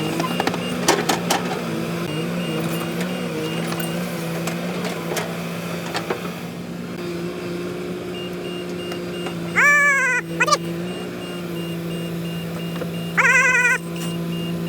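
Diesel engine of heavy machinery running steadily, with a few sharp clicks about a second in. Two short warbling electronic tones sound, one near ten seconds and one near thirteen seconds.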